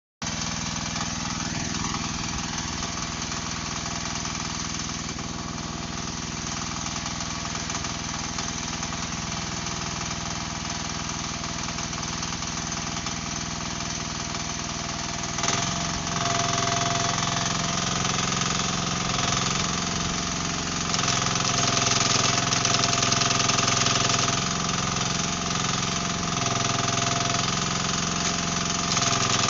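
Mini excavator's engine running steadily. About halfway through it steps up in speed and level, and a rapid rattling hammering comes in, typical of a hydraulic breaker chipping concrete.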